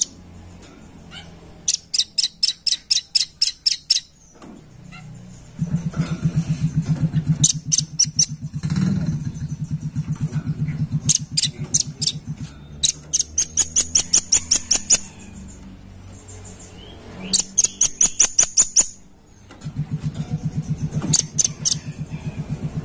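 Velvet-fronted nuthatch (rambatan paruh merah) calling in repeated bursts of rapid, sharp, high notes, each burst a second or two long. A low pulsing hum runs beneath the calls for stretches.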